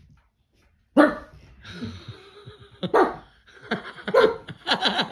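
Tiny chihuahua barking: a sharp bark about a second in, then a run of quick, high barks that come closer together toward the end.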